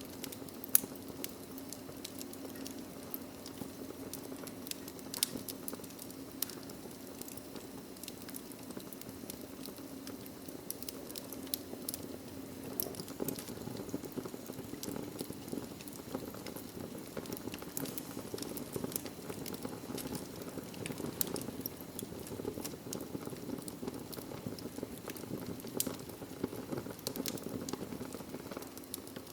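Wood fire in a fireplace burning steadily: a soft low rushing of the flames under many irregular sharp crackles and pops from the burning logs, one louder pop about a second in.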